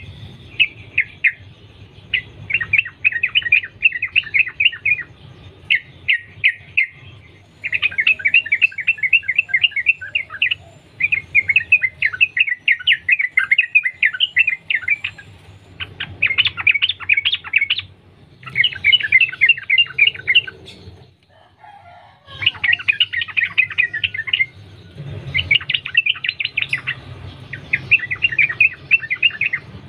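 Yellow-vented bulbul (trucukan) singing long, rapid runs of bubbling chattering notes in bouts of a second or more, with short pauses between them, over a faint low hum.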